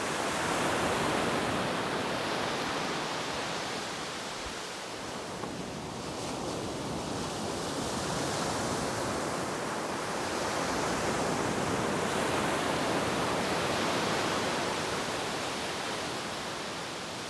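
Ocean surf washing onto a beach: a steady rush of breaking waves that swells and eases twice, loudest near the start and again in the second half.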